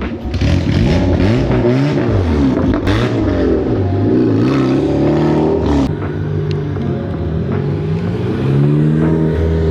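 Car engines revving, their pitch rising and falling again and again, with more than one engine overlapping at times.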